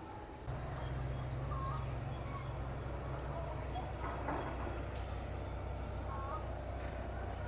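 Birds chirping outdoors, short high calls repeating about once a second, over a steady low rumble that starts about half a second in.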